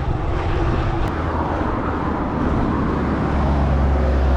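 Wind buffeting a microphone on a moving bicycle, with road noise; a motor vehicle's engine hum comes up steady and low about three seconds in.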